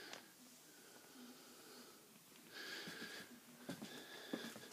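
Near silence: quiet room tone with a few faint clicks late on.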